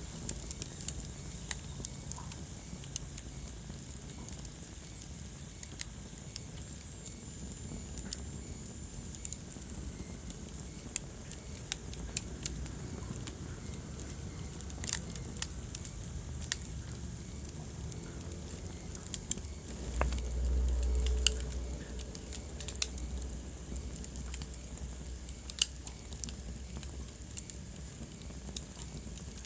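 Wood fire crackling in a fireplace: sharp, irregular pops and snaps over the low rumble of the burning. About twenty seconds in, a louder low rumble swells for a second or two.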